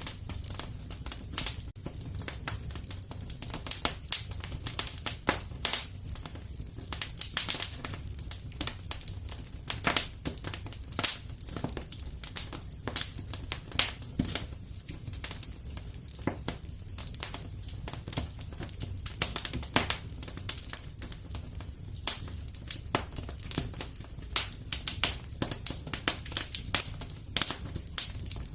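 Wood fire burning in a fireplace: irregular crackles and sharp pops several times a second over a steady low rumble of the flames.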